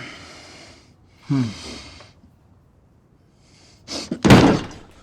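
A person breathing heavily, with a short falling voiced sound about a second and a half in and a loud, sharp breath near the end.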